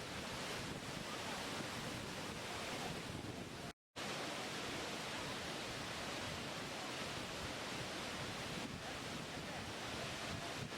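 Waterfall rushing: a steady, even roar of falling water. It cuts out completely for a split second about four seconds in, then resumes unchanged.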